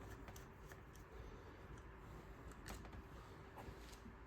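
Near silence, with a few faint, light clicks from engine parts being handled as a component is slid off.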